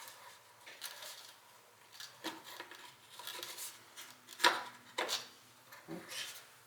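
Small metal tools and engine parts clinking and clattering in irregular handling sounds, with one sharp metallic clack about four and a half seconds in.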